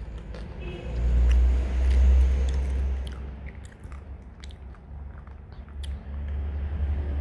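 Corn chips being crunched and chewed close to the microphone, with scattered short crunches. A heavy low rumble comes in two long stretches, starting about a second in and again near the end.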